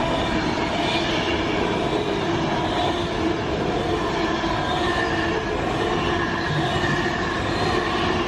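A train passing through the station at speed without stopping: a loud, steady rush of wheels on rail with faint steady squealing tones over it.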